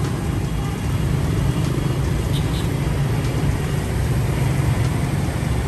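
Road vehicle engine running steadily with a low rumble, amid traffic noise.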